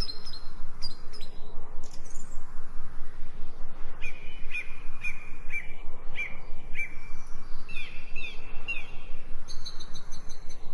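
Small birds chirping: a run of short, downward-sweeping chirps repeated about twice a second, with higher, quicker twittering near the end, over a steady low background noise.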